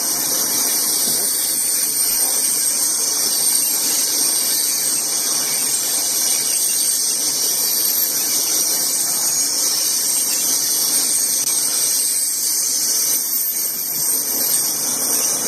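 CSX freight train rolling past steadily. The noise is continuous, with high-pitched tones ringing above the running noise of the train.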